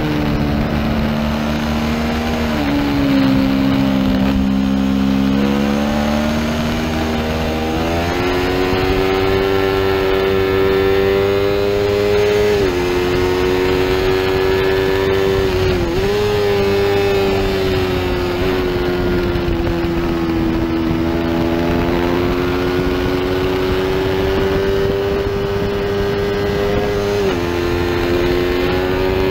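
Onboard sound of a small-displacement racing motorcycle under hard throttle, its engine note climbing with speed and stepping abruptly at gear changes several times, over steady wind rush.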